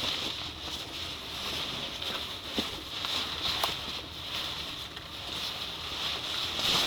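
Rustling of bedding and floor material being spread and handled inside a tent, with a couple of light knocks near the middle.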